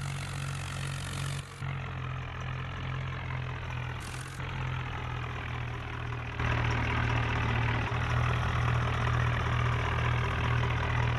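New Holland tractor's diesel engine running steadily, getting noticeably louder about six seconds in.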